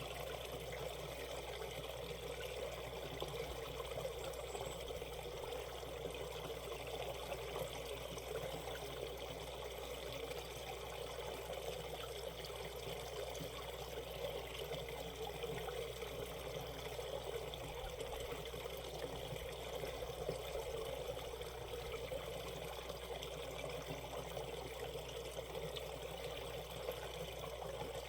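Shallow valley stream running over rocks: a steady rush and babble of flowing water.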